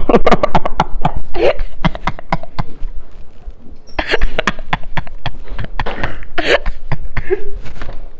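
A loud, rapid run of knocks and clicks, as of objects handled close to the microphone, mixed with a few short vocal sounds.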